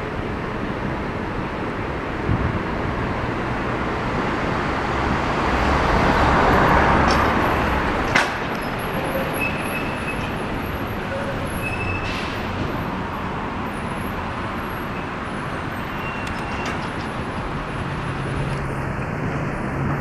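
Street traffic noise, with a vehicle passing close about six to seven seconds in and a sharp click soon after.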